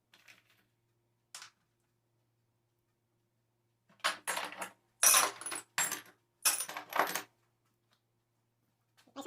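Small metal objects clinking and clattering, handled in several quick bursts over about three seconds, after a couple of faint ticks.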